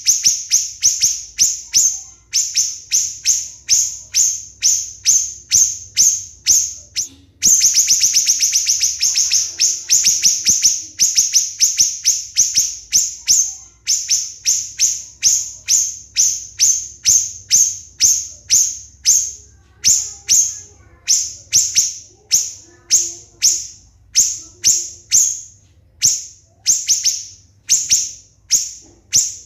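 Siri-siri bird calling in a long series of short, shrill, high-pitched notes, about two a second: the rapid, closely spaced "tembakan" (shot) calls prized as tutoring material for songbirds. About a quarter of the way in, the notes run together into a fast, dense volley for a few seconds, then fall back to the steady spacing.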